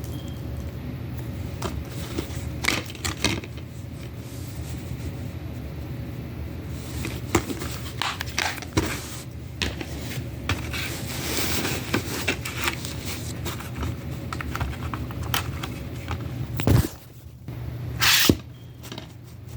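A DVD case and its packaging being handled: scattered plastic clicks, scrapes and rustles, with two louder knocks near the end, over a steady low hum.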